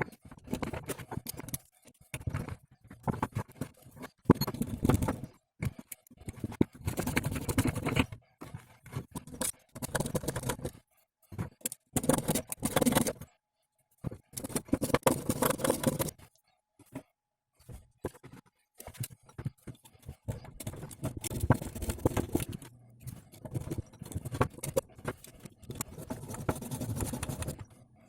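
Hand-tool work on a driveshaft universal joint: irregular bouts of metal scraping and clicking, a second or two at a time, broken by short pauses.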